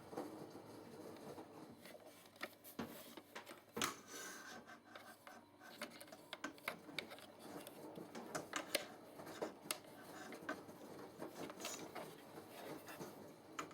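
Handling noise: objects rubbing and rustling, with many irregular light clicks and taps.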